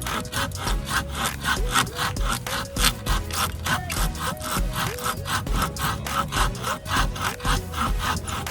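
Hand saw cutting firewood in quick, even strokes, with background music under it.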